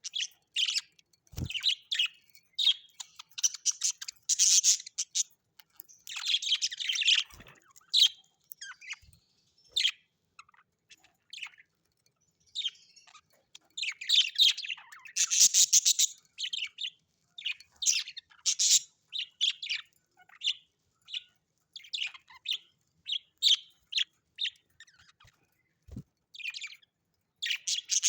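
Parrots chirping and chattering in many short calls, with a few longer, harsher squawks among them.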